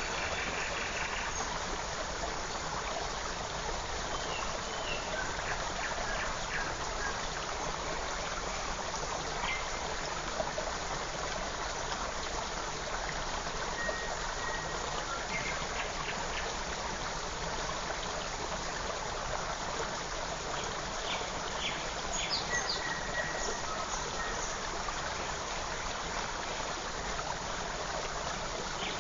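Forest stream flowing in a steady rushing wash of water, with a few faint, short bird chirps and whistled notes over it, most of them about three-quarters of the way in.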